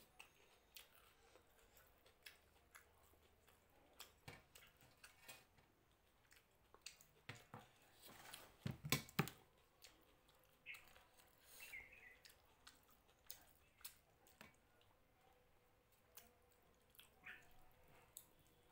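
Faint close-up eating sounds: a person chewing mutton curry and rice, with scattered small mouth clicks and smacks and a louder cluster of them about nine seconds in.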